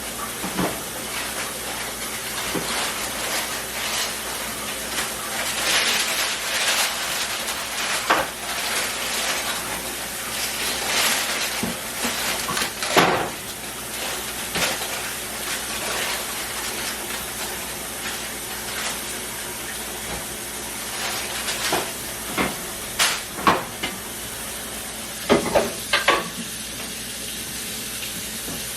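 Kitchen tap running steadily into a sink, with dishes and utensils clinking and knocking now and then: one sharp clatter near the middle and several more near the end.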